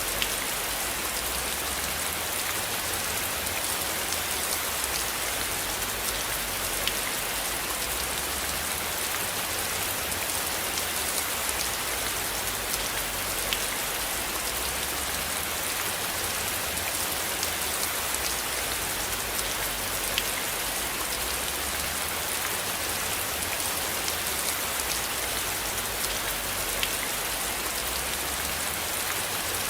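Steady rain falling on a surface: an even hiss with scattered sharp drop ticks. A low rumble comes and goes underneath.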